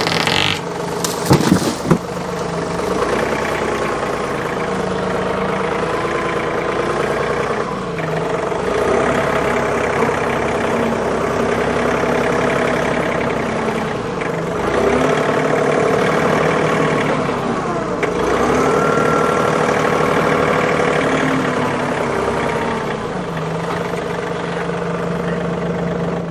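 Tractor engine running steadily, with its note dipping and recovering a few times as it takes and sheds load.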